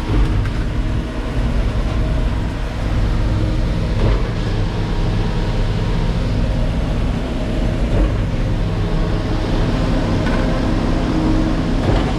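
Diesel engine of a Terex FD4000 front-discharge concrete mixer truck running steadily, with a few faint knocks over the top.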